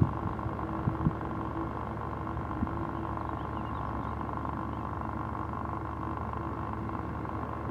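Jet airliner engines running at idle, a steady hum with a held whine. A few sharp knocks come in the first second or so and once more a little later.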